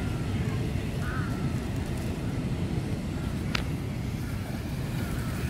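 Outdoor background noise: a steady low rumble with faint high chirps over it, and one sharp click a little past the middle.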